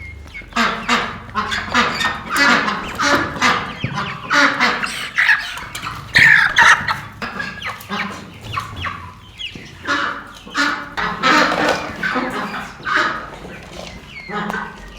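Domestic poultry calling over and over, many short calls close together.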